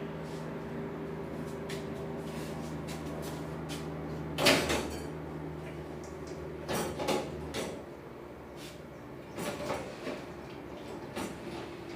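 A few sharp knocks and clatters of parts being handled, the loudest about four and a half seconds in, over a steady low hum that dies away about halfway through.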